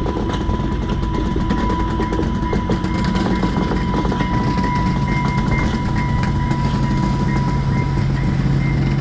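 Train passing on the rails: a steady rumble with small clicks of the wheels, and a steady high-pitched whine running through it.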